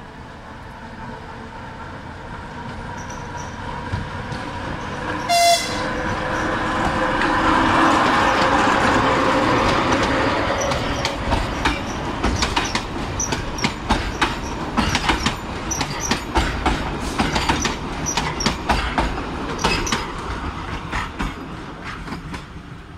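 Narrow-gauge diesel train departing: the locomotive's engine grows louder as it approaches, with one short horn blast about five seconds in. Then the coaches pass close by, their wheels clacking rapidly over rail joints and points, and the sound fades as the train moves away.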